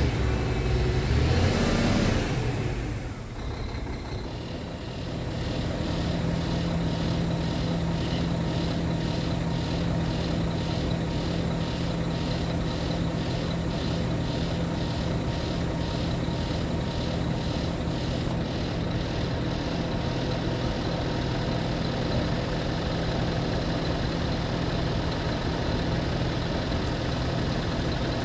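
Scania G tipper truck's diesel engine revving briefly, then settling into a steady idle. A quick regular ticking runs alongside for a while and stops about two-thirds of the way through.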